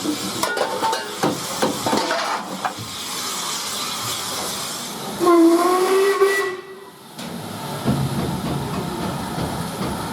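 Steam locomotive whistle giving one loud blast of about a second and a half, a little after midway, over a steady hiss of steam. Metallic clanks and knocks of the train come in the first few seconds.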